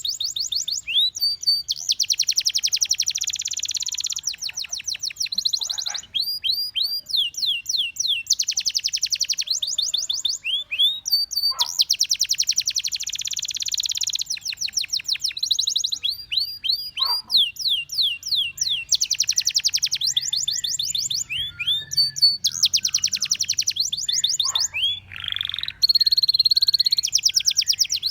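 Domestic canary singing: phrases of very fast trills, each held for about two seconds, alternating with runs of sharp, high, downward-sliding notes.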